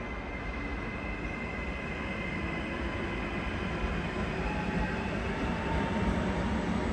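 Frecciarossa high-speed electric train running into the station, its rumble with a faint steady whine slowly growing louder as it approaches.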